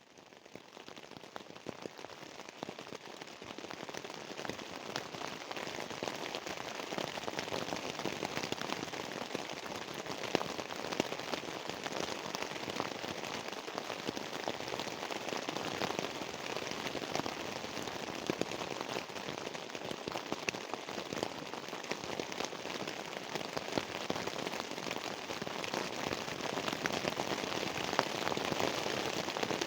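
Steady heavy rain, with many separate drop hits. It fades in over the first few seconds and grows a little louder near the end.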